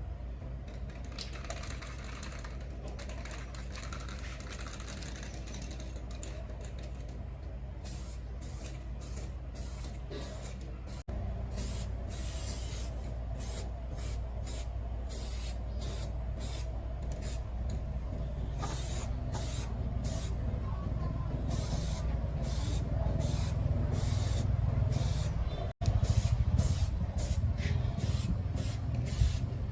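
Short, repeated hissing bursts of compressed-air spray, about one or two a second, over a steady low machine hum.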